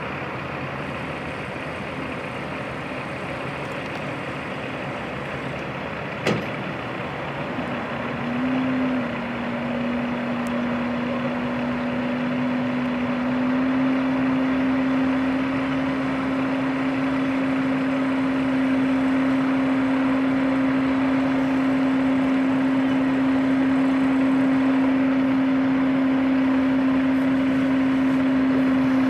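Heavy truck engine running, with a strong steady drone that comes in about eight seconds in and steps up a little in pitch a few seconds later, then holds. A single sharp click comes just before the drone.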